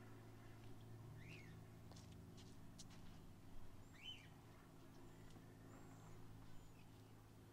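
Faint birdsong: two quick chirps that rise and fall in pitch a few seconds apart, with thin high calls in between, over a steady low hum.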